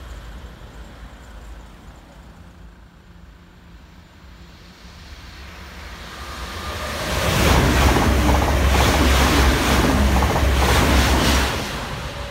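A train passing at speed on an electrified main line: the rumble builds from about six seconds in, runs loud for about four seconds with a regular pulsing beat of wheels on the track, then drops away.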